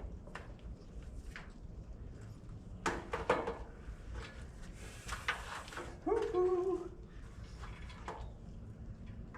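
A few sharp knocks and clicks of objects being handled, over a steady low hum, with a brief hiss about five seconds in. A whooping "woo-hoo" shout comes about six seconds in.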